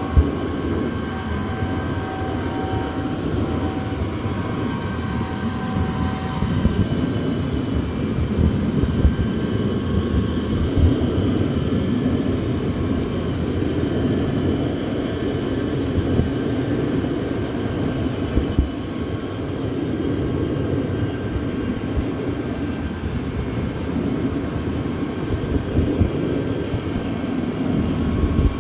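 Train running along the track: a steady rumble with scattered knocks, and a few faint high tones during the first several seconds.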